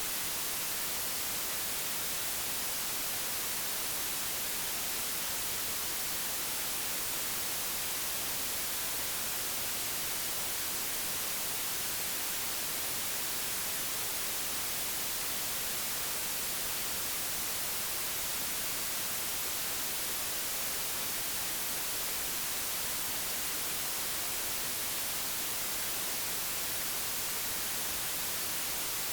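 Digitally generated white noise: a steady, even hiss across the whole range, unchanging in level.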